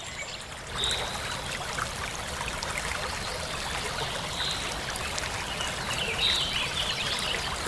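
Flowing stream water, a steady rushing and trickling, with a few faint bird chirps now and then.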